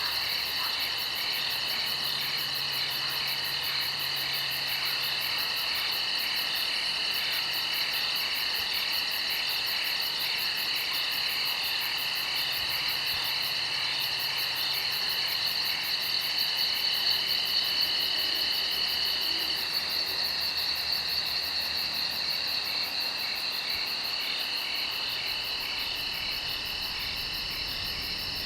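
Chorus of crickets and other insects trilling steadily at several high pitches, with a very rapid fine pulse on top; one of the trills stops about two-thirds of the way through.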